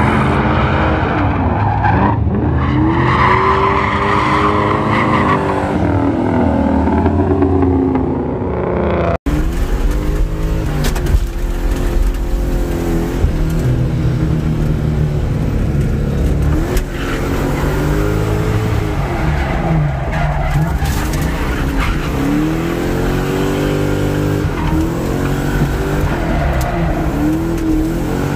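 A Mustang's engine revving hard up and down during a drift run, its pitch rising and falling over and over, with the tyres skidding. After a cut about nine seconds in, it is heard from inside the car's cabin, heavier and more booming.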